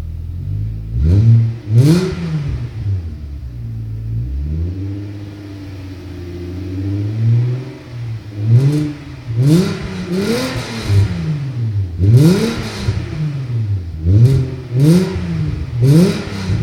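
Audi A6 2.8 V6 with a Friedrich Motorsport exhaust and its middle silencer removed. It idles, then is revved in a string of quick blips, each falling straight back to idle, with one slower rise and fall partway through.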